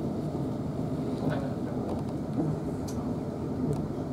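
Steady rumble of a South Western Railway Class 450 Siemens Desiro electric multiple unit running at speed, heard from inside the carriage.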